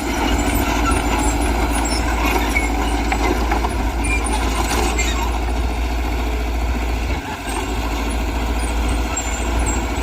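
Heavy diesel earthmoving machinery running steadily under load, a continuous low engine hum with clatter on top. The level dips briefly about seven seconds in.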